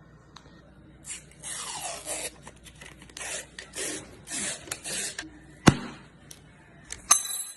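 Kitchen handling noise: a run of rasping, rustling strokes, about two a second, then a single sharp knock, the loudest sound, and a last click with a brief ring near the end.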